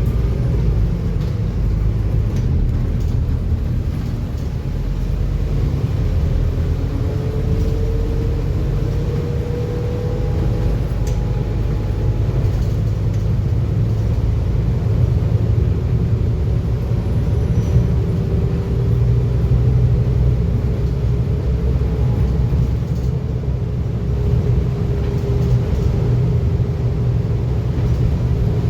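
Scania N230UD double-decker bus heard from inside the passenger cabin while under way: a steady low engine and road rumble, with a faint whine that rises in pitch a few times.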